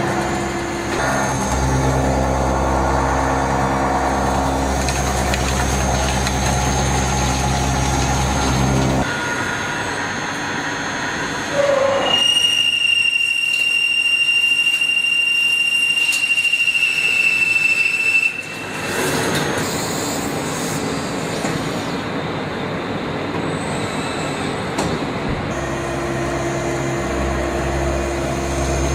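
CNC mill-turn machine at work: a steady low machine hum, then a loud, high, steady squeal for about six seconds from the middle, after which the hum returns near the end.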